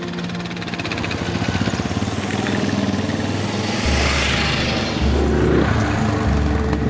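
Motorcycle engine running and growing louder, with a broad rush of noise swelling about four seconds in.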